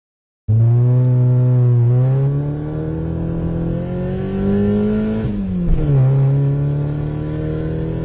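Car engine accelerating. It starts suddenly about half a second in, and its note climbs steadily. Around five seconds in the note dips sharply, like a gear change, then climbs again.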